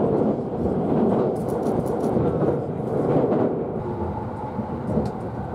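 Limited express train running at speed, heard from inside the passenger carriage: a steady, loud noise of wheels on rails, with a few faint clicks, as it crosses a steel truss river bridge.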